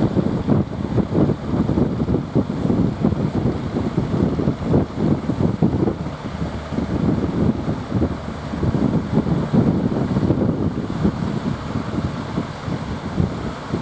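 Strong wind buffeting the microphone, a loud gusting rumble that covers the sound of the sea and boats.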